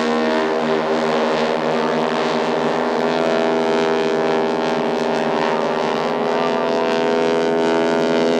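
Radial engines of several Stearman biplanes flying in formation, a steady drone of many overlapping pitched tones that shift slightly in pitch as the planes manoeuvre.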